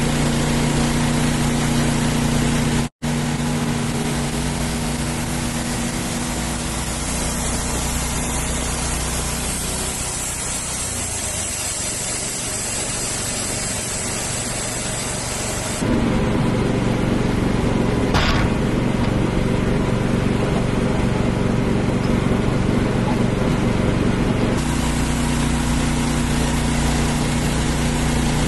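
An engine runs steadily in several spliced stretches. Its sound changes abruptly at each cut, about 3, 16 and 24 seconds in.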